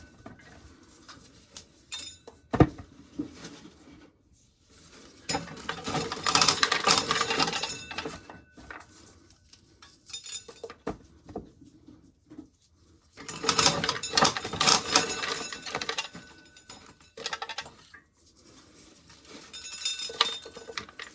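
Dried corn kernels being shelled, rattling and clinking in three bursts of a few seconds each, with a single sharp knock early on and quieter gaps between.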